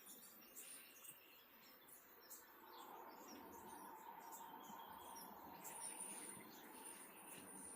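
Faint outdoor nature ambience: a soft hiss with scattered high-pitched chirps and a steady high trill in the second half.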